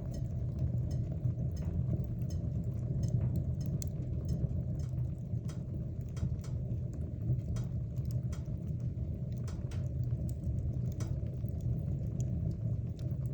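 Wood fire burning in a fireplace: a steady low roar with frequent irregular crackles and pops.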